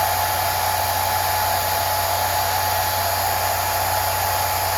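Hair dryer blowing steadily, a constant rush of air with a thin steady tone in it.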